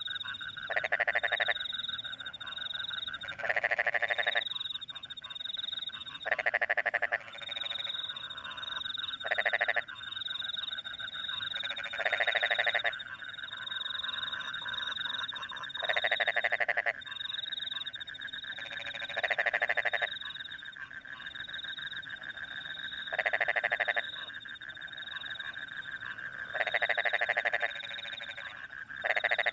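Rice-field frogs croaking after rain, a loud call coming about every three seconds, over a steady chorus of trilling crickets.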